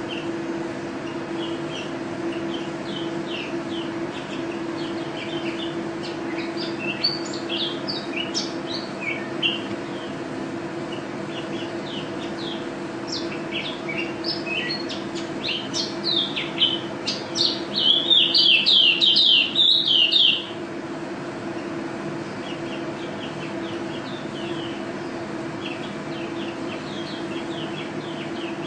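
A pleci (white-eye) songbird singing a fast twittering of short high chirps, rising to a loud, dense rush of song about two-thirds of the way through, then carrying on softer. A steady low hum runs underneath.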